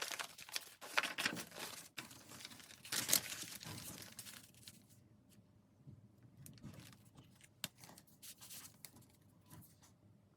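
Paper being handled: crinkling and rustling with louder bursts at about one and three seconds. After about four and a half seconds it gives way to a few scattered light taps and rustles.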